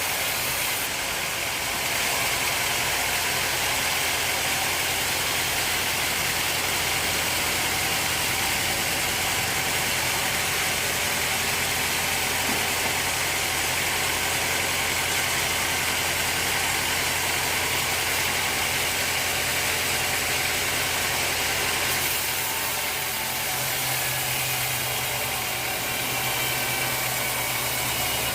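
Sawmill machinery running steadily: an engine or motor hum under a loud, high hiss of sawing. The hiss eases and the hum changes about three quarters of the way through.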